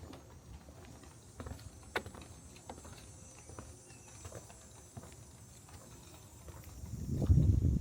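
Footsteps knocking on a wooden boardwalk, a sharp step every half-second to second. A louder low rumble swells near the end.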